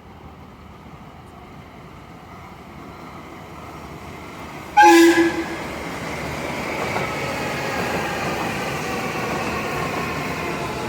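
315 series electric train approaching and sounding its horn once, a short blast about five seconds in, then running by with a steady, louder rush of wheel and running noise.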